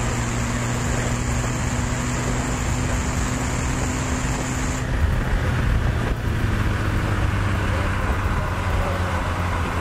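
BMW 330Ci's straight-six engine pulling at steady revs under way, with wind rushing through the open-top cabin. About five seconds in the engine note shifts, then slowly climbs again.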